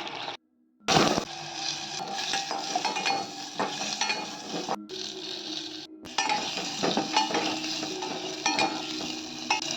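Food sizzling in a pan while a metal spoon stirs it, scraping and clinking against the pan, in short pieces broken by abrupt cuts.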